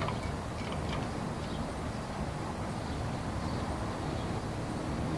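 Steady background noise, a low rumble with hiss and no distinct event, as heard on an old VHS tape's soundtrack between narration.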